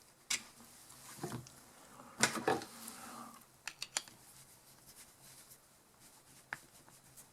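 Small metal clicks, taps and scrapes of a screwdriver and carburetor parts being handled while working at the carburetor's brass main jet: a few scattered clicks, the loudest cluster about two seconds in.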